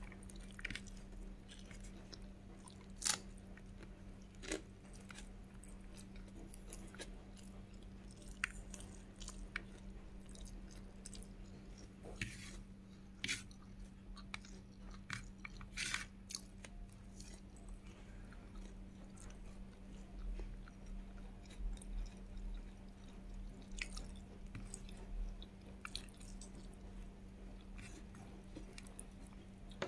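Close-miked chewing of a mouthful of rice, scrambled egg, bacon and raw garlic, with irregular sharp crunches and mouth clicks, over a faint steady hum.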